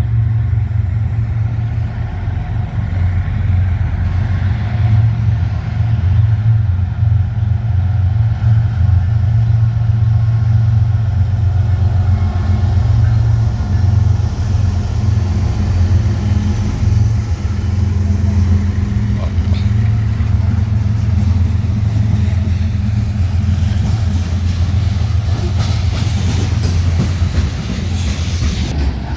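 Train passing with a loud, steady low rumble, with a higher rushing noise building near the end.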